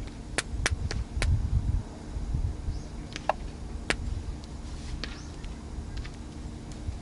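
Wood fire crackling: sharp irregular pops, four in quick succession in the first second or so and a few more later, over a low, uneven rumble.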